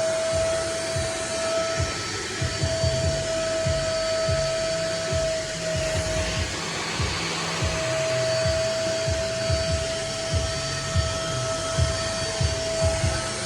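Nunix wet and dry vacuum cleaner running, a steady motor rush with a high whine that falls away briefly twice.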